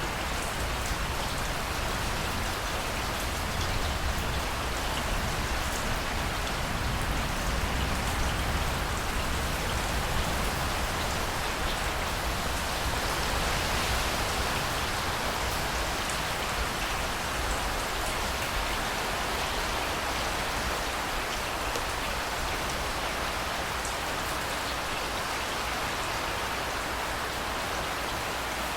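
Steady rain falling, with a low rumble of blustery wind underneath and no distinct thunderclap.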